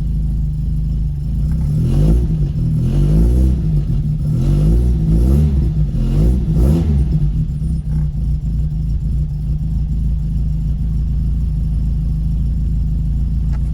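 1975 VW Scirocco's carbureted inline-four, with headers, running just after a cold start. It idles steadily, is blipped up and down several times in quick succession from about 2 to 7 seconds in, then settles back to idle.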